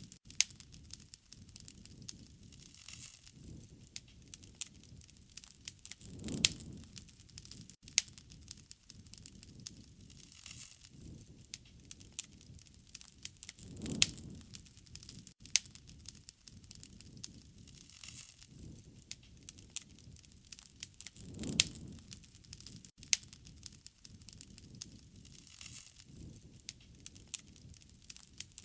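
Wood fire crackling, with frequent sharp pops and snaps. A soft, low whoosh of the flames swells and fades three times, about every seven to eight seconds.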